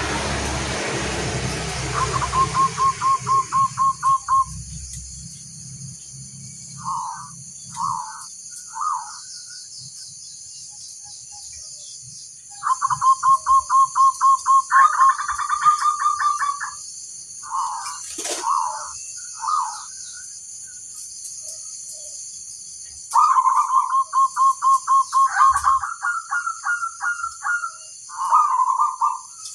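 Zebra dove (perkutut) cooing: three long phrases of rapid, evenly spaced coos, each rising into higher notes at the end, with short single coos between the phrases. A steady high hiss runs throughout, and there is a single sharp click about two-thirds of the way in.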